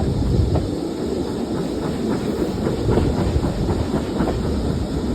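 A train hauled by a GWR Prairie 2-6-2 tank steam locomotive passing close by on an uphill climb: a steady rumble with the wheels clicking over the rail joints.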